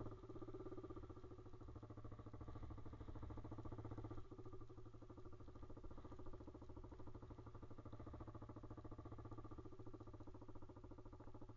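Pit bike's small single-cylinder engine running steadily at low revs, a fast even pulse throughout, easing slightly about four seconds in.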